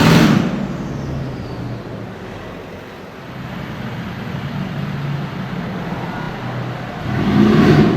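Mercedes-AMG G-Wagon engines in street traffic: a loud pass-by fading away in the first second, then a steady low engine note, then another loud pass-by near the end.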